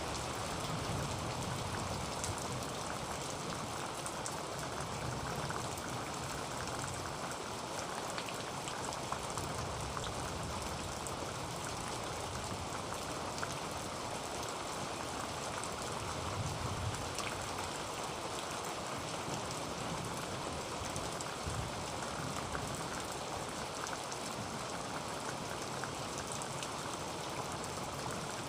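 Heavy rain falling steadily on a tin roof: a dense, even hiss with scattered sharp drop ticks and a few soft low swells.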